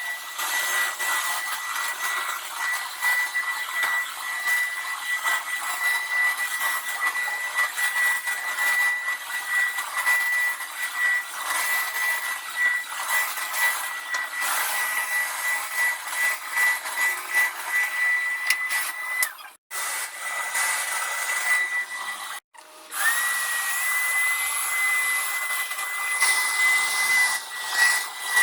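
Hoover Power Scrub Deluxe carpet washer running: a steady high whine from its motor over a loud rush of suction and spinning brushes. The sound cuts out briefly twice about twenty seconds in. After the second break the whine sits slightly higher, then settles back near the end.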